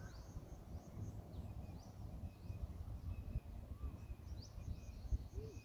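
Birds chirping faintly, a few short chirps here and there, over a low rumble of outdoor noise.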